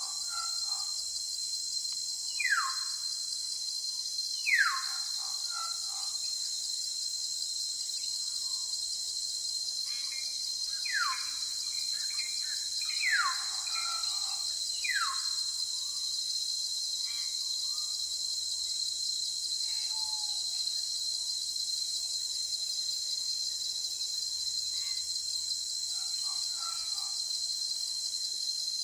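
Steady high-pitched drone of insects such as cicadas or crickets, with a bird repeating a short, sharply falling whistle every few seconds, mostly in the first half.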